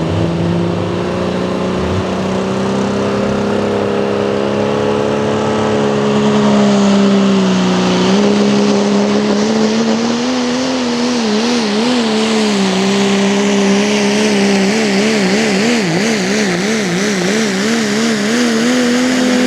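Pro stock diesel pickup truck engine at full throttle under load on a pull, its pitch climbing at the start and then holding steady. Midway the pitch dips briefly, and over the second half the engine speed wavers rapidly up and down as the truck bounces and the tires hop, until the throttle is cut off abruptly at the end.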